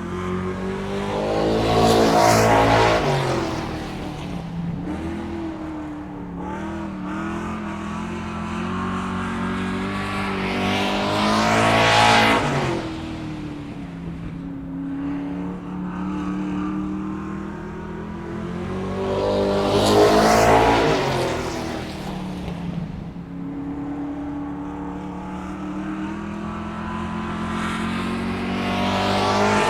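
Cars going past one after another, four times: each engine note swells and rises in pitch as it approaches, then drops as it passes. A steady low engine hum runs between the passes.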